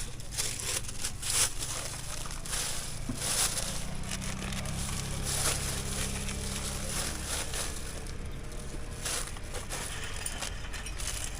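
Irregular crackling and knocks of items being handled, over a low steady hum.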